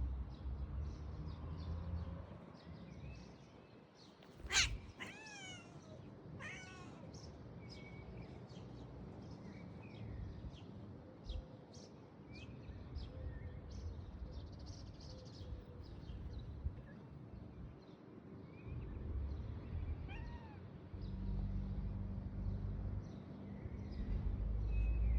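Domestic cat meowing: a loud meow with a falling pitch about four and a half seconds in, another shortly after, and a faint one near the end, over a low background rumble.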